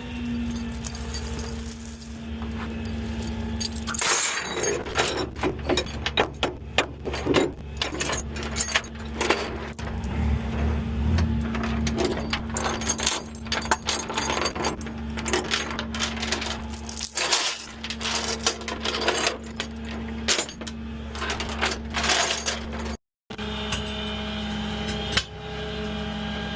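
Rapid metallic clinking and rattling, like tow chains and hooks being handled, for most of the time, over a tow truck's steady idling engine. The clinking stops shortly before a brief cut to silence, after which only the idle remains.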